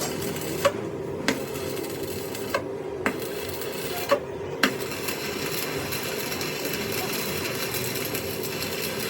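A machine running with a steady hum, with six short, sharp knocks spread over the first five seconds.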